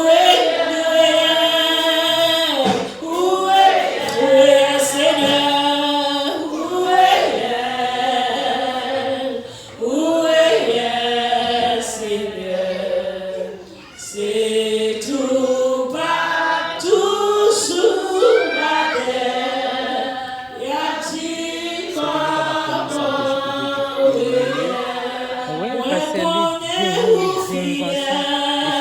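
Congregation singing a hymn together, voices without clear instrumental backing.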